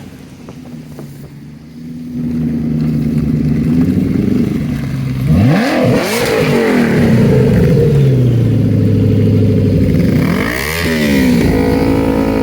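A car engine revving and accelerating hard. It is quiet at first, comes in about two seconds in, then rises sharply in pitch about halfway, falls away, and revs up again near the end.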